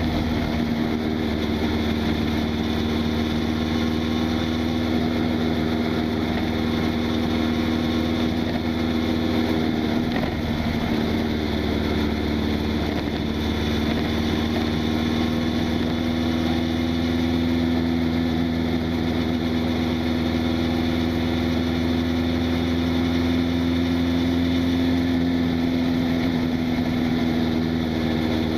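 Honda CB1000SF inline-four motorcycle engine running at fairly steady revs. Its pitch dips briefly about ten seconds in, then climbs slowly through the second half before falling off at the end.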